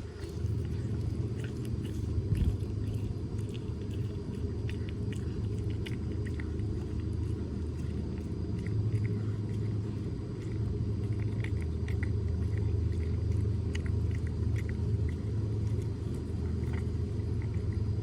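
Cat chewing a pork rib, with scattered small crunches and clicks, over a steady low rumble.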